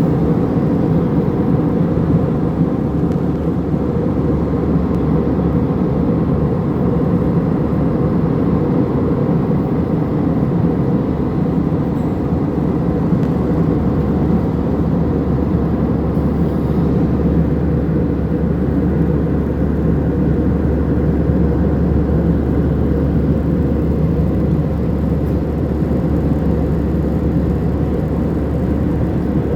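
Airplane cabin noise in flight: a steady, loud drone of engines and rushing air, deepest and strongest in the low range, unchanging throughout.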